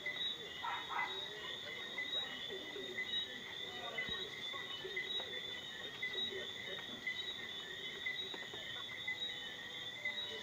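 Chorus of night insects trilling steadily at several high pitches, with a steady faint hiss underneath.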